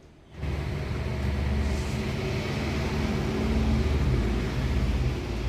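Sawmill machinery running with a steady low engine drone, starting abruptly about half a second in.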